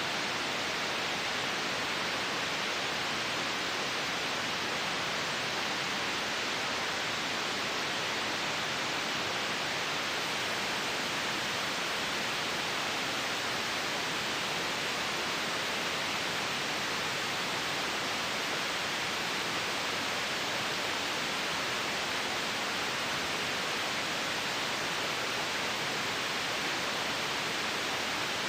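Steady, unchanging white noise: an even hiss with no rhythm or events in it.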